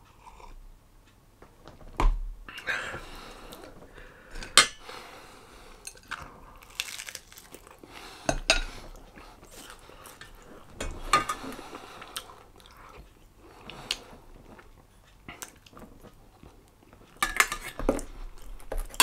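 A person chewing and eating food close to the microphone, with a few sharp clinks of cutlery or crockery scattered through.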